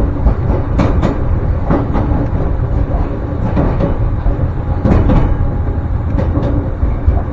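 Ryutetsu Nagareyama Line train running: a steady low rumble with a few sharp clicks from the running gear.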